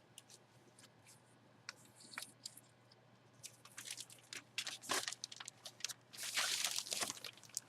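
Light crinkling and rustling from packaging being handled, with scattered small clicks that grow busier about halfway through and turn into a steady rustle near the end.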